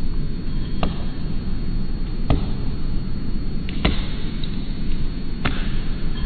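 A woodpecker pecking at wood: four single sharp knocks, about a second and a half apart, over a steady low rumble.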